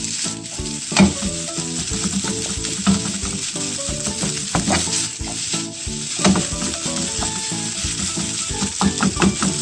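Fried rice sizzling in a hot pan as a spatula stirs and scrapes through it. Sharp clacks of the spatula against the pan sound here and there, the loudest about a second in and around six seconds.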